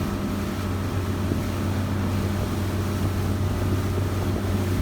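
Boat's outboard motor running steadily at constant speed, a low even hum.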